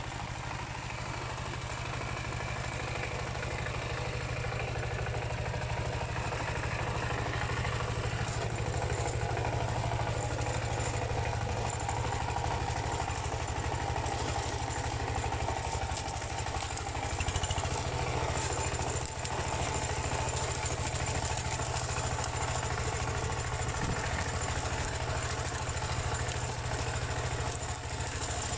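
Dongfeng single-cylinder diesel engine of a two-wheel hand tractor running steadily while working the field.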